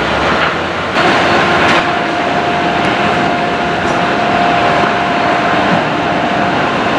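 A train approaching: a steady rushing noise, joined about a second in by a steady high whine.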